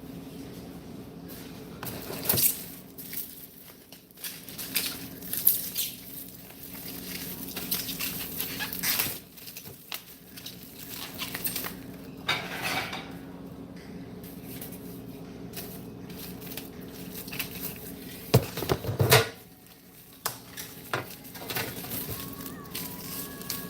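Dishes and utensils clattering and knocking as things are handled in a kitchen, with a few sharper knocks near the end, over a steady low appliance hum.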